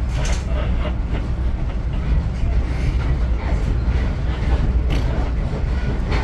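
Steady low rumble of a moving passenger train heard from aboard a coach, the wheels running along the rails.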